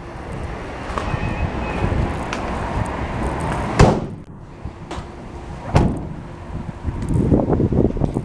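Ford Transit van doors being shut: a loud thud nearly four seconds in and another about two seconds later, with a lighter knock between and rustling handling noise around them.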